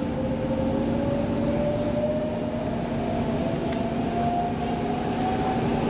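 X10 electric commuter train running, its motor whine rising slowly and steadily in pitch as the train gathers speed, over a steady low hum and rumble.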